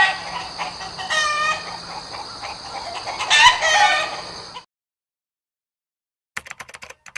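A flock of chickens clucking and squawking, with two louder calls about a second in and about three seconds in; the calls stop after about four and a half seconds. Near the end comes a quick run of sharp clicks.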